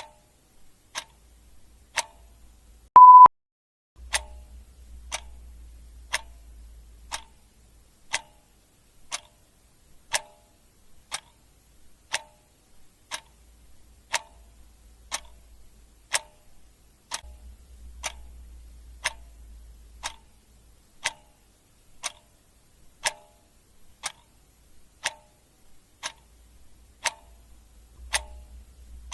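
Clock ticking steadily, one tick a second. About three seconds in, a single short, loud electronic beep sounds.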